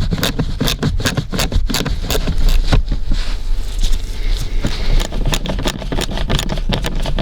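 Rapid run of sharp ratchet clicks, about four to five a second, with some scraping, as a ratchet with a 7 mm socket unscrews the two screws under the glove box.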